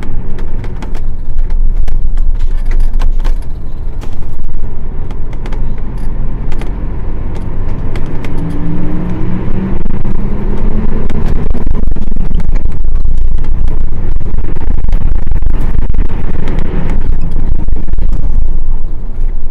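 Nissan Diesel PF6 diesel engine (240 ps) of a Nissan Diesel KL-UA452KAN city bus, heard from inside the cabin while the bus is moving. About eight seconds in, the engine note rises as the bus accelerates, and frequent sharp clicks run through it.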